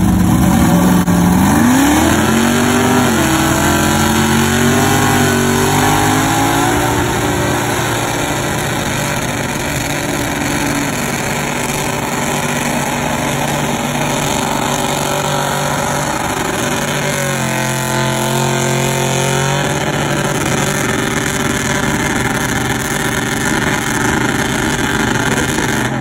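Drag-car engines held at high revs for a burnout, the tyres spinning and smoking. The revs climb sharply about two seconds in and stay high, then dip and rise again about two-thirds of the way through.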